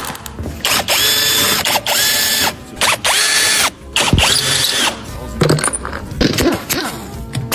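Handheld power tool running in four short bursts of about a second each, its motor spinning up and winding down each time, followed by scattered clicks and knocks.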